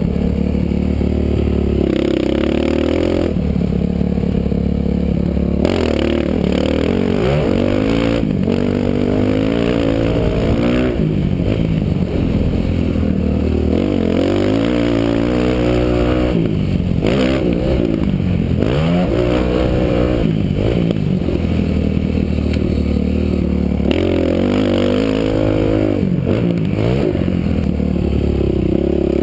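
Motocross dirt bike engine revving up and dropping back again and again as the rider accelerates, shifts and brakes around the track, heard from a helmet-mounted camera. Short knocks and rattles break in here and there.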